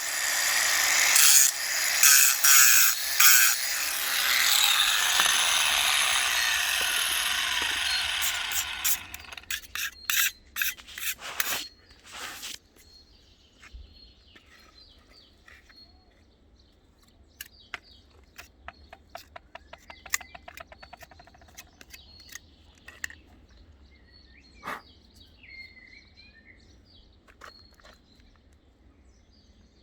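Harsh rubbing or sawing work, in quick strokes at first and then steady, stopping about nine seconds in. A few knocks and clicks follow, then birds chirping faintly.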